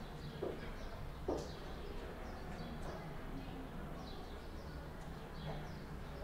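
Faint short bird chirps, scattered every second or so, over a steady low hum of room tone.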